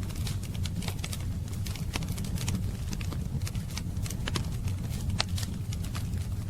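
Wood fire crackling: irregular sharp pops and snaps, a few louder ones around two seconds and five seconds in, over a steady low rumble of the burning fire.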